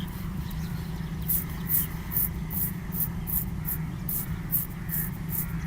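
Razor scraping through chest hair in quick, even strokes, about two to three a second, starting about a second in, over a steady low hum.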